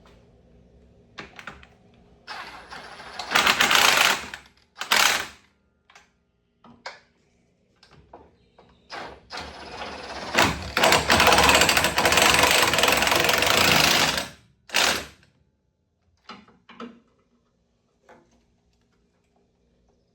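Power impact wrench hammering on a nut through a socket in two bursts, about two seconds and then about five seconds long, with short metallic knocks of the socket and tools between them.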